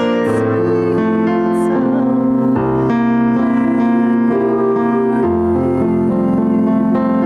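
Slow keyboard music, sustained piano-like chords changing every second or two.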